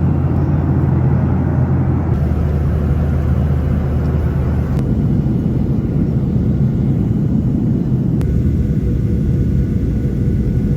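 Airliner cabin noise in flight: a loud, steady low rumble, its tone shifting abruptly a few times.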